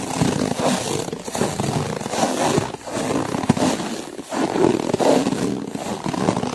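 Footsteps crunching through snow, slow and even, about one step every second and a half.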